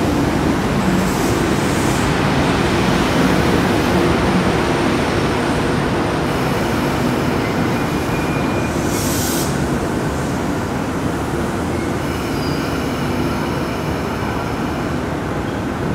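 Sydney Trains C-set stainless-steel double-deck electric train rolling past along the platform: a steady rumble of wheels and running gear, easing slightly. A brief hiss comes about nine seconds in, and faint wheel squeals ring out near the end.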